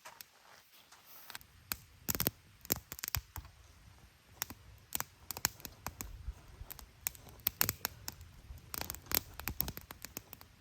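Kindling being prepared by hand: irregular snaps, clicks and scraping of small wood, sometimes in quick clusters, with the loudest around two, three and nine seconds in.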